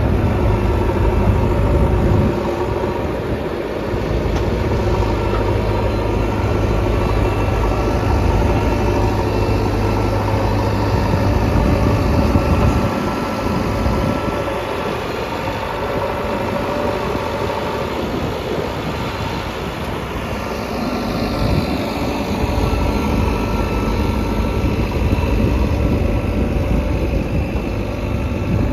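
JCB 3DX Xtra backhoe loader's diesel engine running steadily, its load swelling and easing several times as the machine works.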